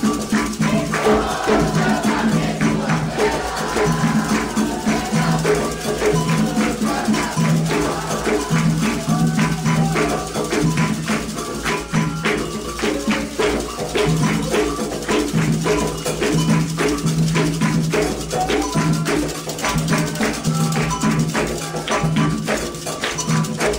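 Candomblé ritual music: atabaque hand drums beating a fast, steady rhythm with a shaken rattle, and chanting voices, clearest in the first few seconds.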